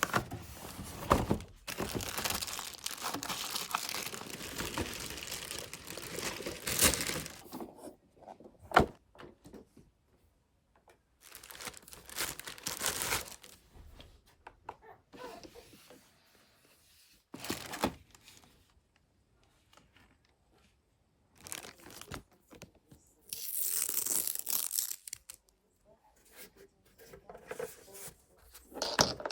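Wrapping being torn and crinkled, with small handling knocks, in several bursts separated by quiet gaps; the first burst runs for about eight seconds.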